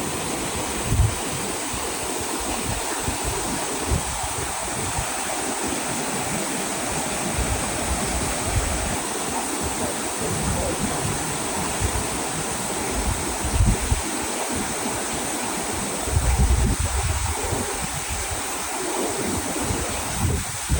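Steady rush of flowing water from a mountain waterfall and stream, with wind buffeting the microphone in a few gusts, the strongest about three-quarters of the way through.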